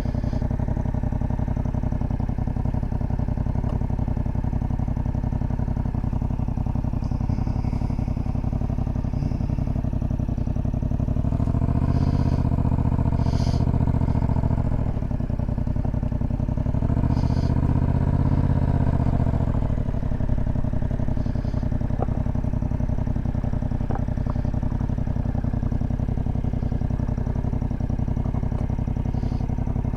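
Motorcycle engine running steadily while riding. The engine gets louder twice, for a few seconds each time, about 12 and 17 seconds in, as the throttle is opened.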